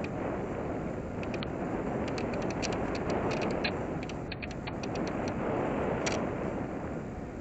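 Airflow rushing over a small RC plane's onboard camera as the plane glides with no motor whine, a steady rushing noise, with scattered short ticks.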